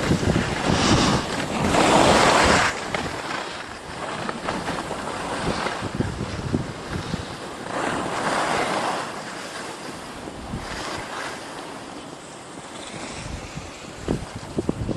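Wind rushing over the microphone during a downhill ski run, mixed with the hiss of skis sliding on snow. The noise swells and fades every few seconds.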